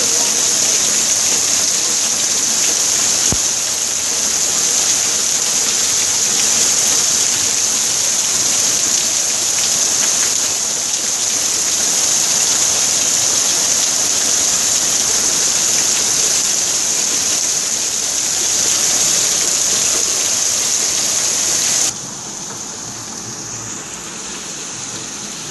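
Rain falling: a loud, steady hiss that drops suddenly to a quieter level about 22 seconds in.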